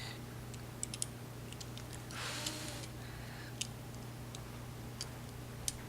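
Scattered light clicks and taps of plastic Lego toy pieces being handled, about eight at irregular intervals, with a short hiss a couple of seconds in, over a steady low hum.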